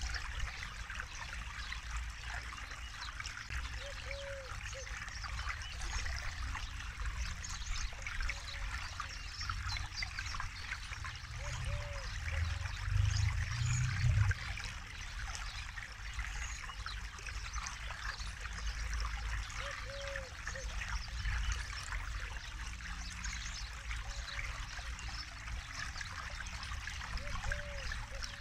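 Forest river flowing, a steady trickling and rushing of water, with a low rumble that swells briefly about halfway through.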